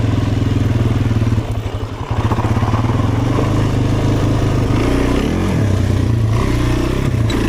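Off-road vehicle engine running under the rider, held at steady throttle, then briefly backing off about a second and a half in before it picks up again, its pitch rising and falling as the rider works the throttle.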